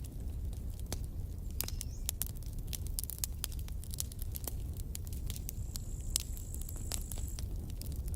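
Campfire burning, with irregular sharp crackles and pops of the wood over a steady low rumble of the flames. A faint high steady hiss comes in for a moment about six seconds in.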